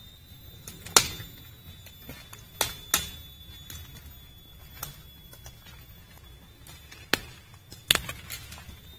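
Airsoft guns firing single shots: about six sharp, irregularly spaced cracks, the loudest about a second in and near the end. A faint steady high-pitched tone runs underneath.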